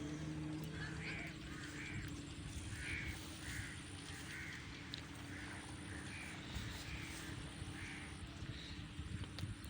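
A bird, likely a crow, calls about ten times in short separate calls over roughly seven seconds, over a steady low hum.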